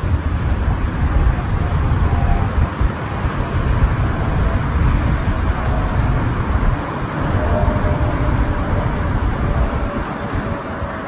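Learjet 35A's twin Garrett TFE731 turbofan engines at takeoff power: a loud, deep rumble with a faint whine that drifts slightly lower in pitch as the jet goes by.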